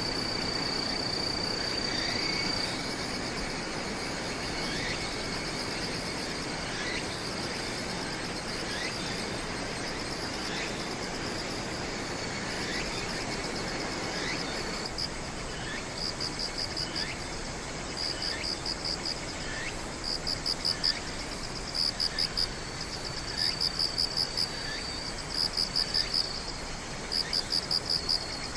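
Singing insects chirping: a steady high trill gives way, about halfway through, to rhythmic groups of quick pulsed chirps that grow louder. Under it, a softer short falling chirp repeats about once a second over a steady background hiss.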